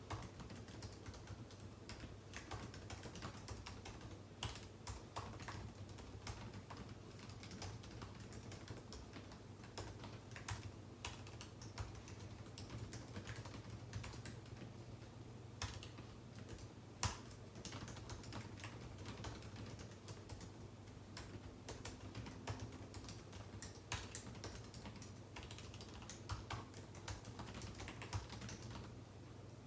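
Continuous typing on a computer keyboard: quick, irregular keystroke clicks, with one louder keystroke just past halfway, over a low steady hum.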